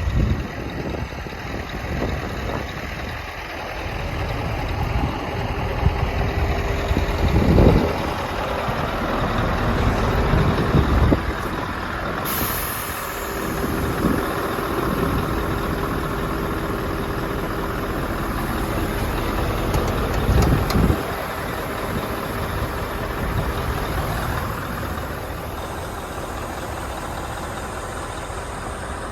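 Scania R580's 16-litre V8 diesel engine running at idle, with three short louder surges.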